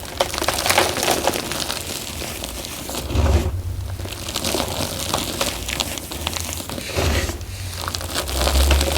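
Soft gym chalk being crushed in a bamboo bowl: dense crunching and crackling that comes in bursts, with two short lulls between them.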